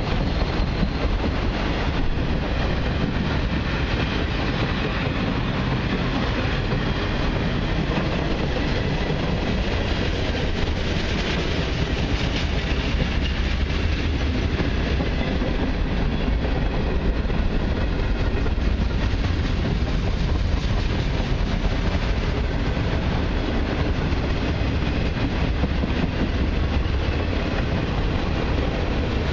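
Freight cars of a long mixed train (autoracks, covered hoppers, boxcars) rolling past close by: steel wheels on the rails giving a steady, deep rolling noise that holds at one level throughout.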